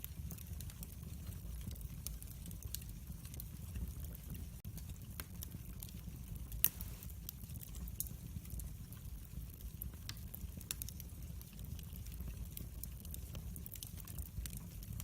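Wood fire in a fireplace crackling, with irregular small pops over a steady low rumble of the flames and one louder pop about six and a half seconds in.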